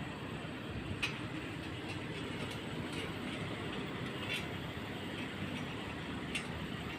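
Steady low rumble of a vehicle, with a few faint clicks about one, four and six seconds in.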